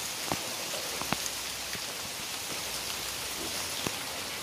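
Steady heavy rain falling, an even hiss with scattered sharp ticks of single drops striking close by.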